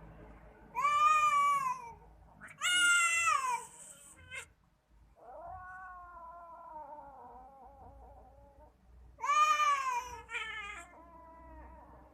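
Domestic cats yowling (caterwauling) at each other, the threat calls of a cat fight. Four loud yowls rise and then fall in pitch, and a long, quieter, lower yowl falls slowly in the middle.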